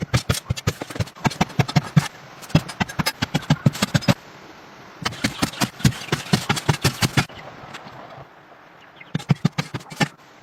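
Rapid series of sharp knocks, about eight to ten a second, coming in four bursts of one to two seconds with short pauses between.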